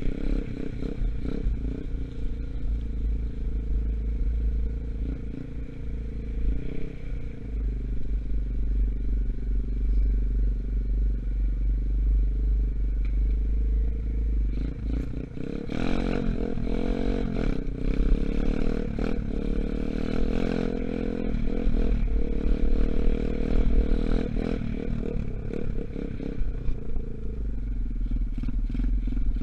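125 cc Gunshot dirt bike engine running under way, its pitch changing as the throttle is opened and closed, with scattered clattering and scraping and a constant deep rumble beneath. The engine is still being run in.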